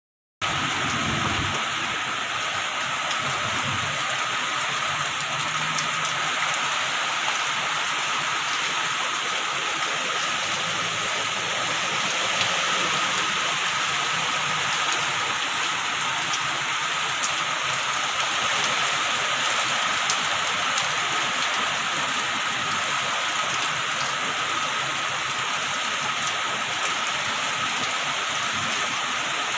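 Heavy rain coming down, a dense steady hiss that starts abruptly just after the beginning, with a faint steady tone running underneath.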